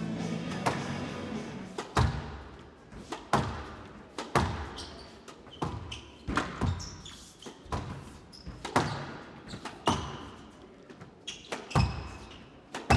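A squash rally: the ball is struck back and forth with sharp cracks off racket and walls, every half second to a second, with short squeaks of court shoes on the floor between the shots. Music fades out during the first two seconds.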